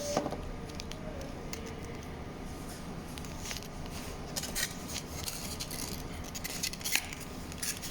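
Irregular light clicks and clinks of eating utensils against dishes, a few at a time, the sharpest one near the end.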